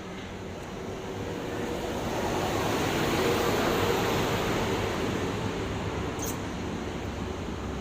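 An engine running steadily, growing louder over the first few seconds and then easing off slightly.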